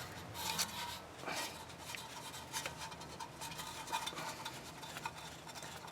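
Faint, irregular metallic clicks and light scraping of hand tools on the rear wheel hub as the ABS wheel-speed sensor's bolt is being run in.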